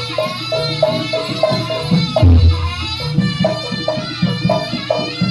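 Javanese jaranan ensemble music: a quick repeated figure of short pitched notes over hand-drum strokes, with one low, deeper stroke about two seconds in.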